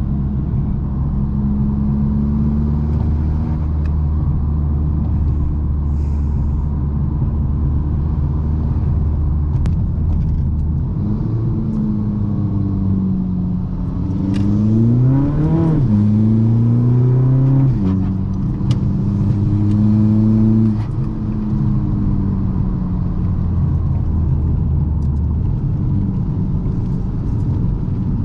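Modified VW Golf MK6 GTD's 2.0 TDI diesel engine with an upgraded turbo, running steadily under way. About halfway through, the revs climb under acceleration, drop sharply at a gear change, climb again, then fall back to steady cruising.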